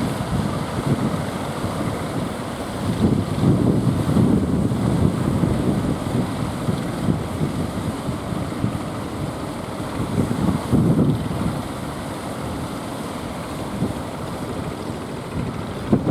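Strong wind buffeting the microphone in uneven gusts, over a steady rush of surf.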